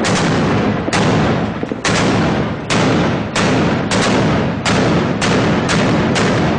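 Truck-mounted heavy weapon firing a rapid barrage: about ten sharp, loud blasts, one every second or less, each trailing into a rushing roar that runs into the next.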